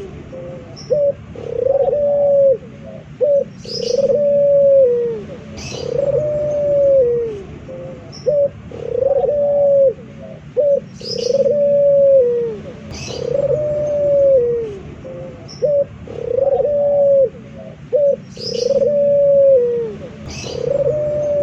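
Male puter dove (Barbary dove) cooing over and over: a long arched coo about every two seconds, each followed by a short clipped note or two. Brief high chirps come in now and then between the coos.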